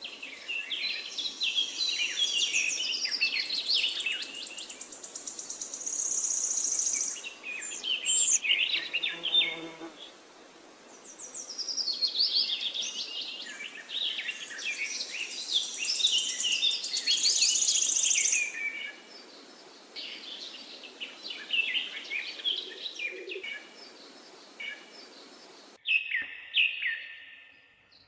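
Several songbirds chirping and singing over one another, with quick rapid-fire high trills and a faint hiss behind them. The background changes abruptly a few times, as if separate recordings were spliced together.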